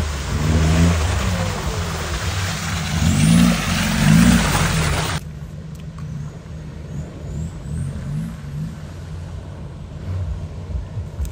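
Off-road 4x4 engine revving, its pitch rising and falling, under a loud rushing hiss. The hiss cuts off suddenly about five seconds in, leaving a quieter, steady low engine sound.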